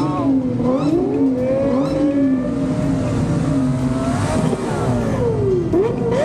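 Car engines revving, their pitch rising and falling slowly over a second or two at a time.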